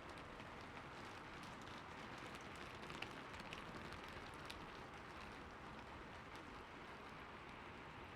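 Rain falling steadily, with many individual drops ticking on a surface and one sharper drop hit about three seconds in.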